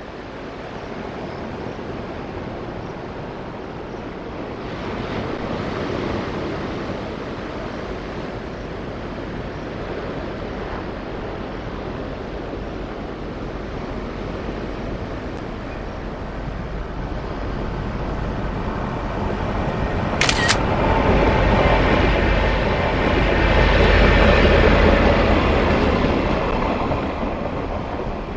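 Locomotive-hauled freight train approaching and passing through the station, growing louder over the second half with a low rumble and rail noise, loudest a little past the middle and easing near the end. A short sharp high-pitched sound about two-thirds of the way in; surf underneath throughout.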